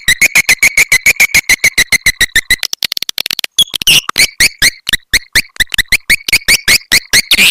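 Swiftlet lure call recording of the 'petir' type: a fast, loud train of sharp chirping pulses, about eight a second, with a brief break about three seconds in. It is played to call swiftlets in to a swiftlet house.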